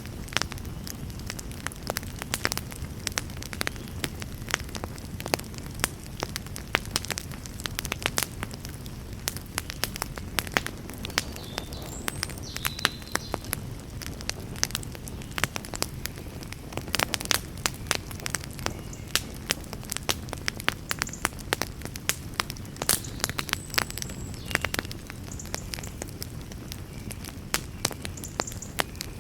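Fireplace fire crackling: frequent, irregular sharp pops and snaps over a steady low rumble of the flames.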